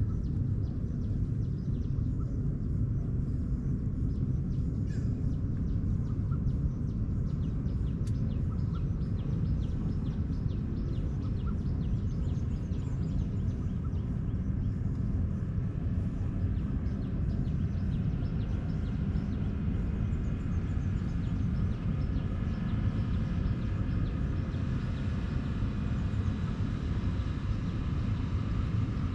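Outdoor ambience: a steady low rumble with faint scattered ticking. In the second half, a distant engine drone grows.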